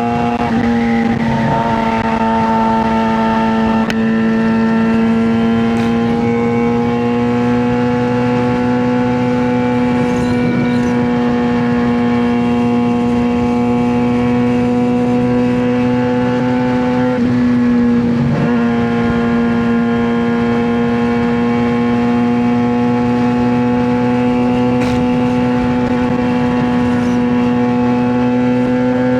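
2009 Suzuki GSX-R600 inline-four running through a straight-pipe exhaust, held at steady high revs while riding. Its pitch dips briefly about four seconds in and again about eighteen seconds in.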